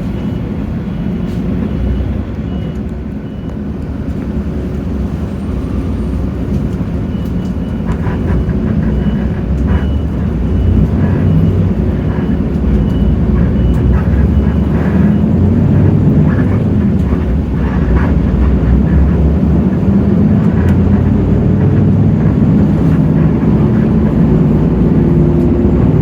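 Hino J08E-VN 7.7-litre inline-six turbodiesel of a city bus running under way, heard from inside the bus. It grows louder over the first ten seconds or so and then holds steady, with occasional light clicks and rattles.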